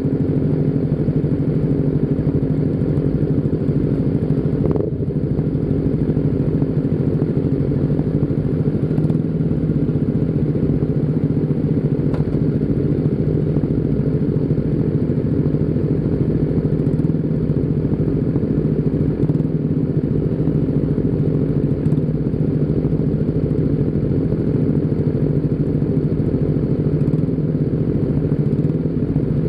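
Motorcycle engine running at a steady speed, a constant low drone with no revving, as on a ride.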